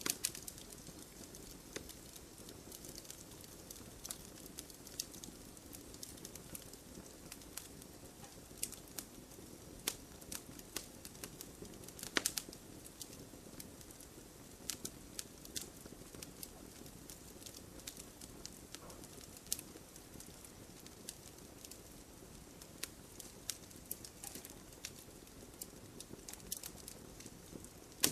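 Wood bonfire crackling: irregular pops and snaps of burning wood over a faint, steady rush of flame, with one louder pop about twelve seconds in.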